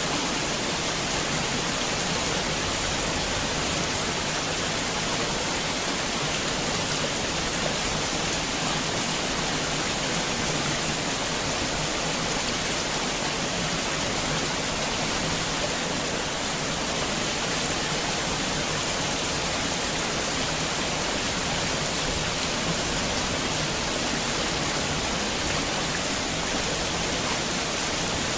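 Heavy rain falling: a steady, even hiss with no thunder and no change throughout.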